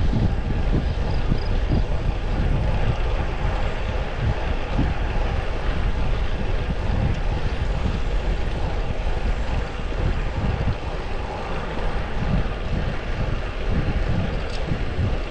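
Wind buffeting the microphone of a road bike in motion, in uneven low gusts over a steady rushing of air and road noise.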